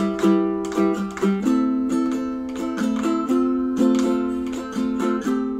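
Ukulele playing: plucked strings ringing in chords, with a new note or chord attack about twice a second and several chord changes.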